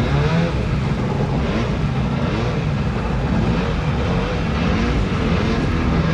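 Small boat's motor running under way, its pitch wavering up and down, over the rush of water and wind.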